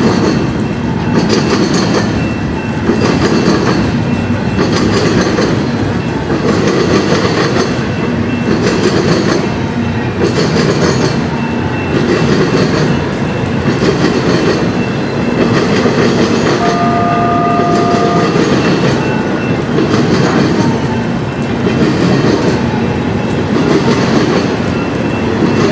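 Freight train passing at speed, its wheels clattering over rail joints in a regular rhythm about once a second as car after car goes by. About two-thirds of the way through, a brief steady two-note tone sounds over the clatter.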